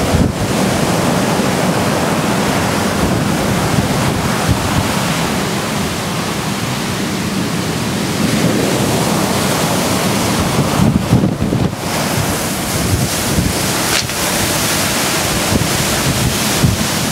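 Hurricane surf washing in under a house on pilings, with strong storm wind buffeting the microphone. Now and then there is a sharp knock as the waves slap a loose board against the cross braces.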